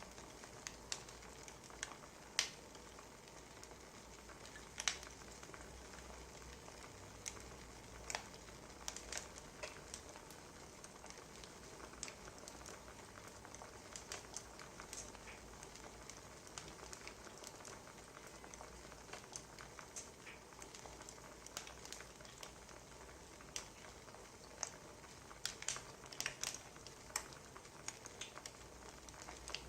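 Wood fire crackling: a steady soft hiss with irregular sharp pops and snaps, coming more often near the end.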